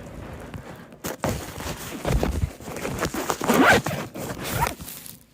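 Close, irregular rustling and scraping from about a second in, with several louder surges: boots and bodies pushing through deep, fresh snow.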